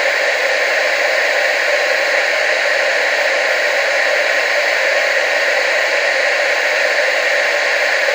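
Steady TV static hiss from an untuned television, even and unbroken, strongest in the upper midrange with almost no bass.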